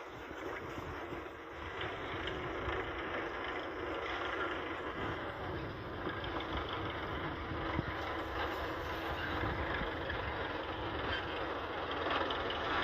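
A tractor running with a steady, even noise that stays much the same throughout.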